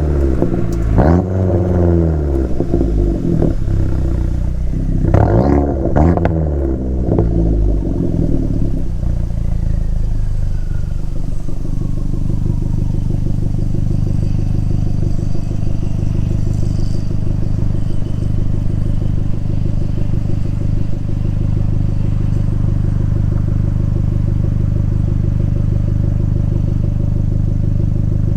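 Abarth 500's turbocharged 1.4-litre four-cylinder through an aftermarket El Gato exhaust with a high-flow cat: the engine is blipped twice, about a second and five seconds in, with the revs falling away after each, then settles to a steady idle with a faint falling whistle.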